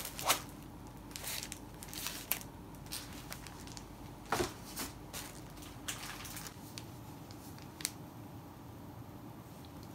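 Sheets of letter paper being handled: a run of short rustles and slides, thinning out after about six seconds with one last crisp rustle near the end.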